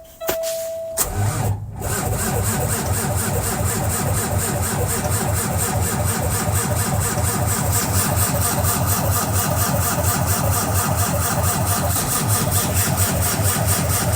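Cummins ISX15 inline-six diesel engine cold-started: a steady high tone for about the first second, then the engine cranks briefly, catches and settles into a steady rhythmic idle.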